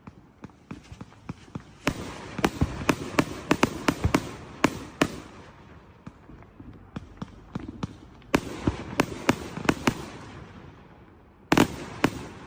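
Consumer fireworks going off in quick volleys of sharp bangs with crackle and echo between them, three clusters of rapid reports.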